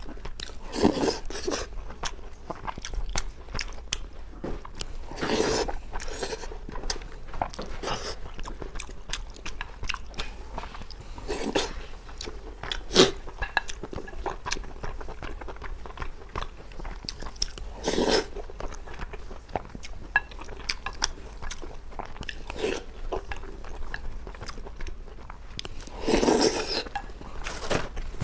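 Close-miked eating: a person chewing and biting a mouthful of braised pork belly and rice, with many small wet mouth clicks and a louder bite or slurp every few seconds.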